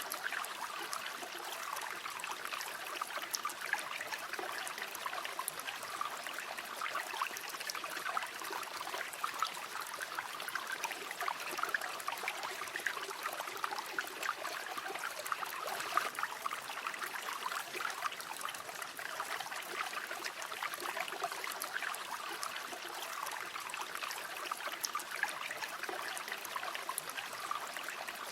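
River water flowing steadily: a constant rush of water with many small splashes and trickles, unchanging throughout.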